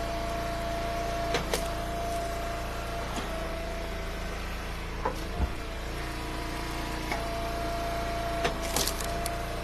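Engine-driven hydraulic log splitter running steadily, its held tone shifting slightly now and then, with sharp cracks and knocks of firewood rounds splitting and pieces dropping, twice about a second and a half in, twice about five seconds in and a cluster near the end.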